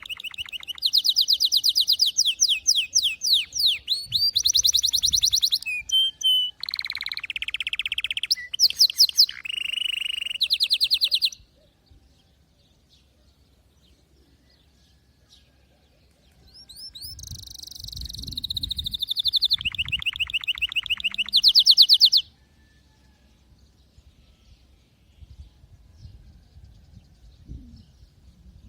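Domestic canary singing: fast trills and rolls of rapidly repeated high notes, in two long bouts with a few seconds' pause between them.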